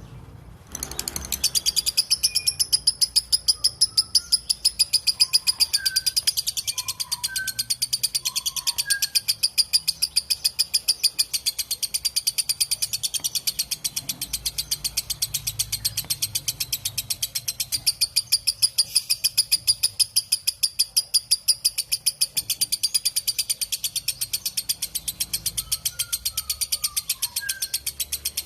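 Lovebird giving its long, unbroken chattering trill (ngekek panjang): a fast, even, high-pitched rattle of notes that starts about a second in and keeps going, with a few softer, lower chirps over it now and then.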